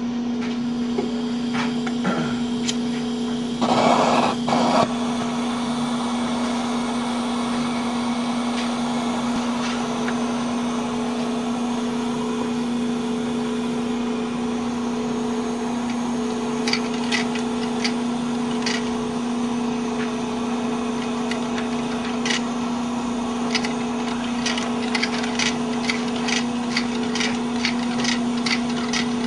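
Hot-air Stirling engine with a walking beam, heated by a butane torch: a steady hiss and hum with a loud rush about four seconds in. From about sixteen seconds in the engine's linkage gives sharp ticks that come faster toward the end, about two a second, as it runs up.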